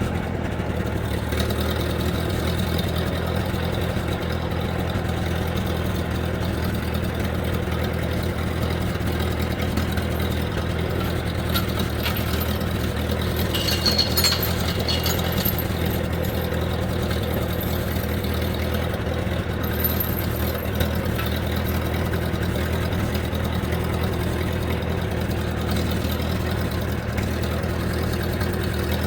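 An engine idling steadily at an even pitch, with a few faint clicks and clanks in the middle.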